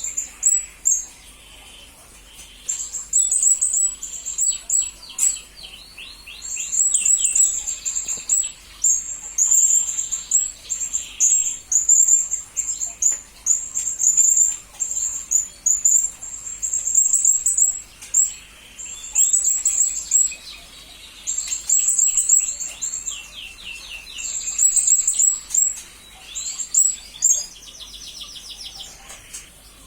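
Blue-crowned hanging parrot (serindit) calling: runs of shrill, very high chirps in quick succession, mixed with faster trilled series a little lower, with short gaps between runs.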